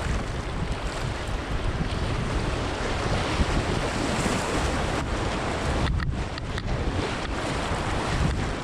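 Rushing whitewater splashing around a kayak as it runs a rapid, with wind buffeting the microphone.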